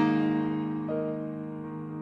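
Background music: a keyboard holding sustained chords, a new chord coming in just under a second in, with the sound slowly fading.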